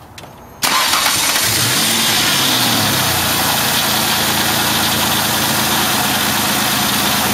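A 2002 Ford Escape's engine starting: it catches abruptly about half a second in, the revs rise and drop back over the next two seconds, and it settles into a steady idle.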